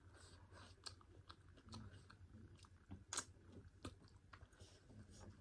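Faint chewing and mouth clicks from a person eating pork curry with white rice, with one sharper click about three seconds in.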